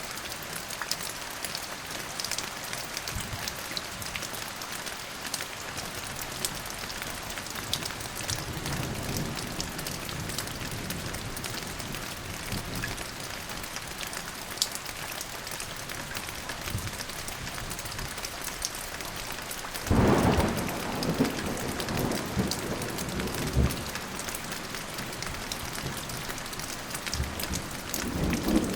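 Steady rain falling, with fine ticks of individual drops. A low rumble of distant thunder swells and fades about a third of the way in. About two-thirds through, a sudden loud thunderclap rolls on for a few seconds, and another begins right at the end.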